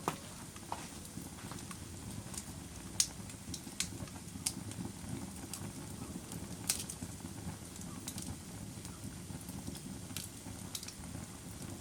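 Wood fire burning in a fireplace: a low steady rumble with scattered sharp pops and crackles, the loudest about three seconds in and again near seven seconds.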